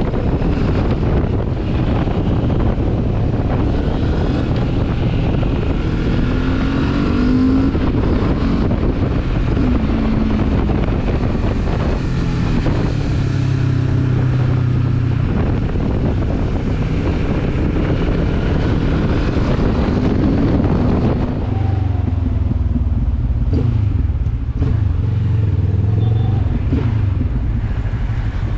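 Benelli TRK 702 motorcycle under way, its parallel-twin engine running steadily under load. The engine pitch rises and falls a few times, about a quarter of the way in and again about two-thirds through.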